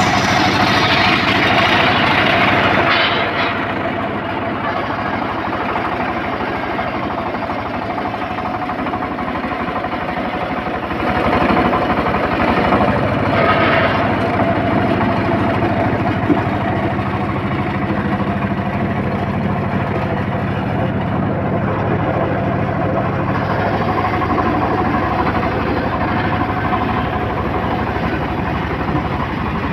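Homemade engine-driven circular saw (serkel) running steadily while sawing teak, with two louder stretches, in the first few seconds and again about eleven to fourteen seconds in.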